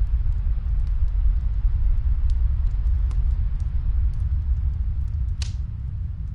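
Steady low rumble of snowstorm wind, with scattered faint pops of a wood fire crackling and one louder crack about five and a half seconds in.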